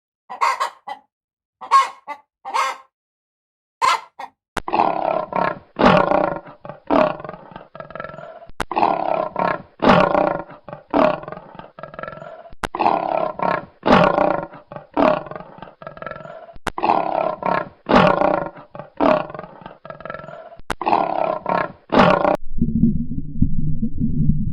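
A few short sharp animal calls, then a long series of loud, harsh roaring calls about one a second. Near the end these give way to a low rumbling sound.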